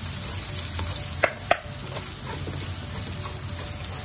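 Chopped onion and garlic sizzling in hot oil in a frying pan as they are stirred. Two sharp knocks sound just over a second in, a quarter second apart.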